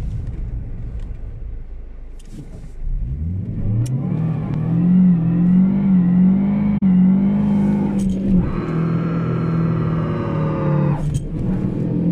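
Car engine revving up: about three seconds in its pitch climbs quickly, then it is held at high revs, a loud steady drone that wavers slightly, heard from inside the car.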